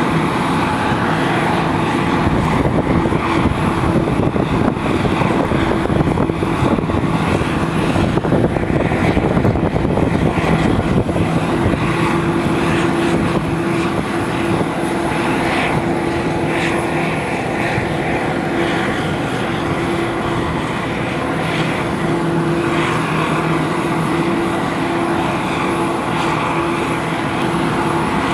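Aircraft engines running loud and steady: a continuous roar with a steady low hum, easing slightly about halfway through.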